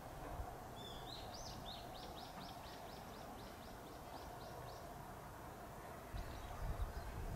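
A Japanese bush warbler (uguisu) sings about a second in: a rising opening note, then a fast run of about a dozen repeated notes lasting some two seconds. It sings over a faint, steady outdoor background, and a low rumble comes up near the end.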